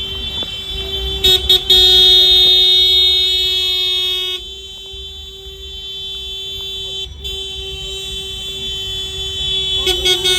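A vehicle horn held down in one long, steady tone over a low engine rumble; it drops in loudness after about four seconds and carries on.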